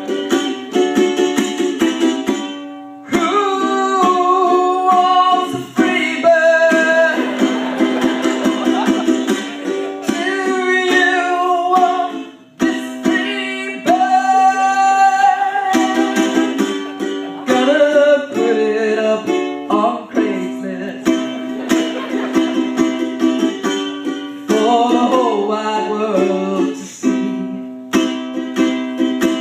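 Ukulele strummed steadily, with a voice singing a wavering, bending melody over it.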